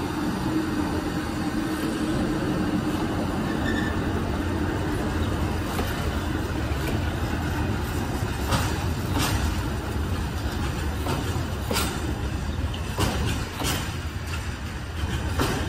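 Freight train passing close by: the electric locomotive's steady hum in the first few seconds, then the wagons rolling past with a continuous rumble and sharp wheel clicks over rail joints, several in the second half.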